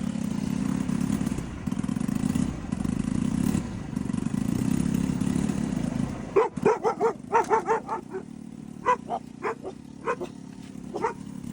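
Scooter running steadily for about six seconds, then a dog barking: a quick run of barks, then scattered single barks.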